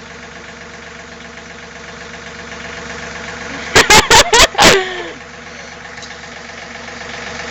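John Deere tractor engine running steadily at idle. A little under four seconds in, a quick cluster of about five loud, sharp sounds cuts through it for about a second.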